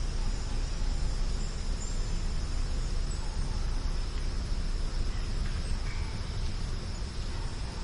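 Outdoor nature ambience: a steady high insect drone with a few faint bird chirps, over a low rumble.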